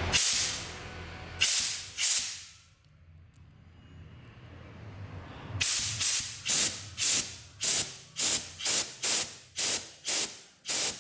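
Compressed air hissing out of a homemade silent air compressor's tank in short bursts: three near the start, then after a pause a quick run of about a dozen, roughly two a second. The air is being bled off to drop the tank pressure so the automatic pressure switch will cut the compressor back in.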